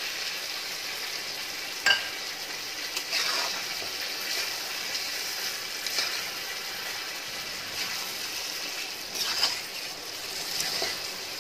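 Chicken pieces sizzling in hot oil in a kadai with freshly added ginger-garlic paste, while a metal spatula stirs them, scraping and knocking against the pan a few times.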